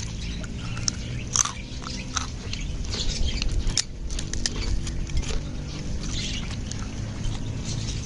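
A person chewing and smacking wet mouthfuls while eating noodles by hand, a string of short clicks and crackles, with birds chirping in the background over a low steady hum.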